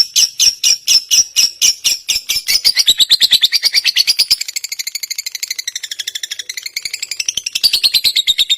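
A songbird on a tutor-song recording sings a long, fast series of sharp repeated notes, about five a second at first. About two and a half seconds in, the notes quicken to roughly ten a second.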